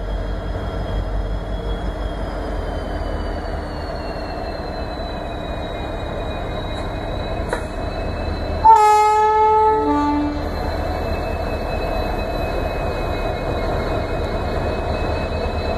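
Electric-hauled LHB express train running past at speed with a continuous rumble of wheels on rail. About nine seconds in, the locomotive's horn sounds one loud blast of about a second and a half, ending in a brief lower note.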